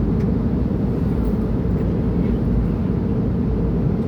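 Steady cabin noise of a jet airliner in flight: an even, low rumble of engines and airflow heard from inside the passenger cabin.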